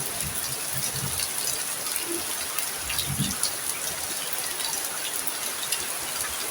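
Heavy rain falling steadily, a constant hiss dotted with the ticks of individual drops striking a surface.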